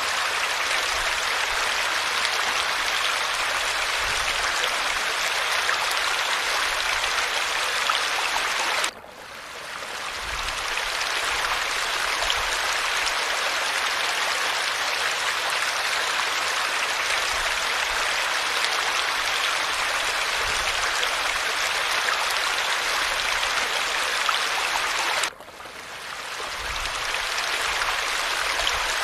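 Steady rushing hiss of falling water. It drops out abruptly twice, about nine seconds in and again near the end, and swells back within a second or two each time.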